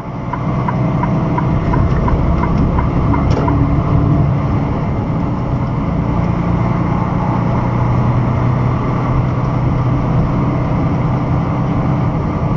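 Truck engine and road noise heard from inside the cab while driving, a steady low hum, with a light regular ticking for the first three seconds or so.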